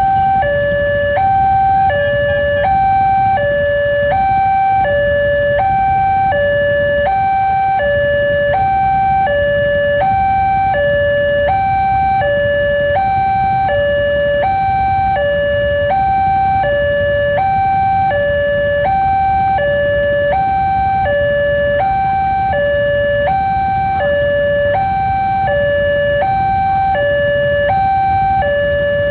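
Railway level crossing warning alarm sounding a steady two-tone high-low alternation, each tone held about two-thirds of a second, signalling that a train is approaching. A low rumble of traffic runs underneath.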